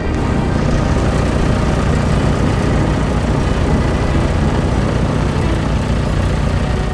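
Heavy machinery engine running, a loud, steady low rumble.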